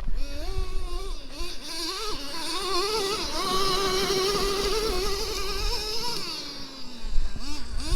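Traxxas T-Maxx 3.3's small two-stroke nitro engine buzzing at high revs, its pitch wavering up and down with the throttle, climbing and holding high through the middle, then falling off about six seconds in.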